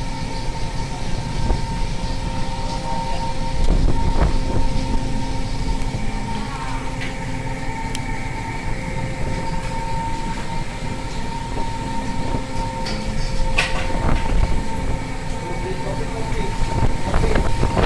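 Steady low drone of a fishing vessel's engine and deck machinery, with a constant hum and a few sharp clanks.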